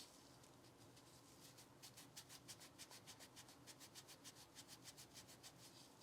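Faint, quick rubbing strokes, about five a second, typical of scrubbing or wiping while cleaning the pistol. They start about two seconds in and stop shortly before the end.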